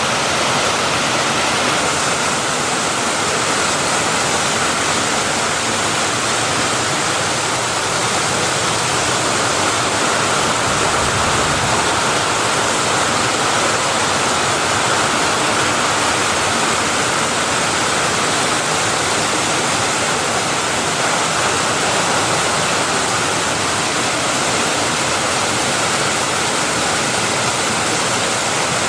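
Floodwater rushing through creek rapids: a loud, steady, unbroken rush of water.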